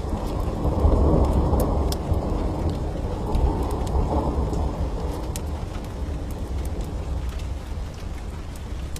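A long roll of thunder, swelling about a second in and slowly fading away, over steady rain. Sharp, scattered crackles of a wood fire in a fireplace sound on top.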